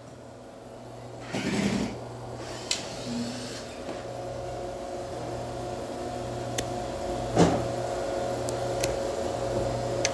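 A steady low mechanical hum that grows gradually louder, with a few clicks and knocks of parts being handled; the loudest knock comes about seven seconds in.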